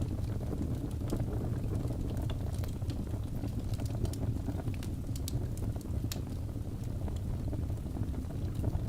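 Log fire burning in a fireplace: a steady low rumble of flames, with scattered sharp crackles and pops from the burning wood.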